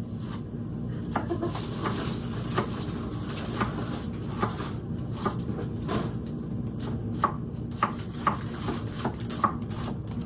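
Irregular knocks and clicks of kitchen utensils on a counter or cutting board during food prep, over a steady low hum.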